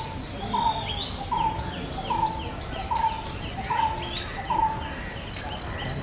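Birds calling: a run of about seven short falling notes, one roughly every three-quarters of a second, ending a little before the close, over a busy chorus of higher chirps.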